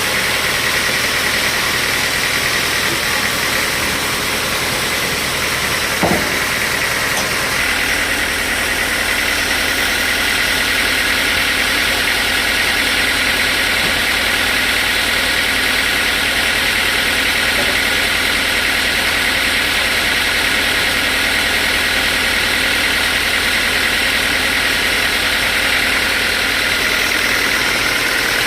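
Sawmill machinery running with a steady, loud mechanical noise. A single sharp knock comes about six seconds in, and soon after a higher, hissing part of the noise grows louder and holds.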